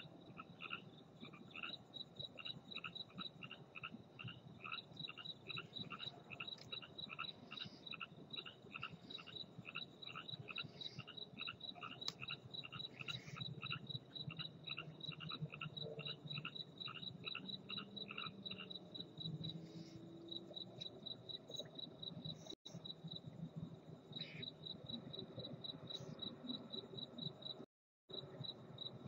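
Night ambience: a cricket chirping steadily at a high pitch, about four to five chirps a second, with a frog calling in a regular pulse about twice a second that stops about two-thirds of the way through.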